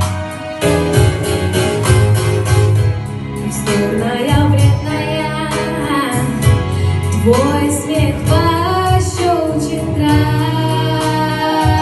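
Female voice singing a pop song over instrumental accompaniment with a steady beat.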